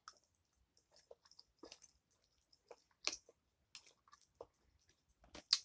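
A person chewing food close to the microphone, most likely a mouthful of cabbage with peppers and sausage: faint, irregular wet mouth clicks and smacks, a little louder about three seconds in and again near the end.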